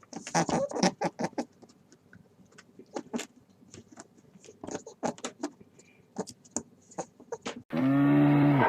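Animal calls: a long run of short, irregular chirps and clicks, then near the end a sudden loud, low, drawn-out call.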